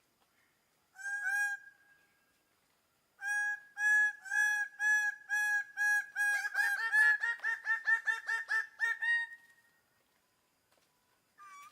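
A bird of prey calling: one short call about a second in, then a steady series of evenly spaced, piercing notes that quickens into a rapid chatter before breaking off.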